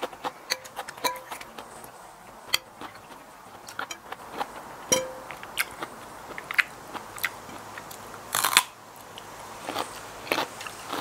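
Close-up eating sounds: chewing and crunching of a raw salmon salad with lettuce and radishes, with clicks of a spoon on the plate. A loud crunchy bite comes near the end.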